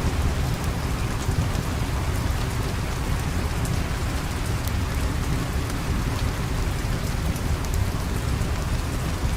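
Steady rain falling, an even hiss with a deep low rumble beneath it and scattered faint sharp ticks throughout.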